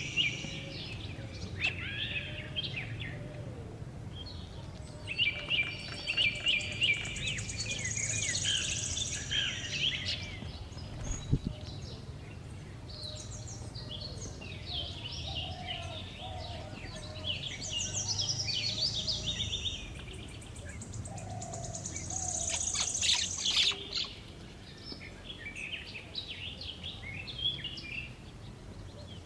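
Wild birds chirping and calling, several voices overlapping in quick bursts of chirps and trills over a steady low background noise.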